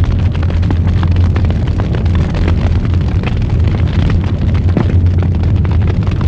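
Wood fire burning in a fireplace, crackling with many small irregular pops and snaps over a steady low rumble.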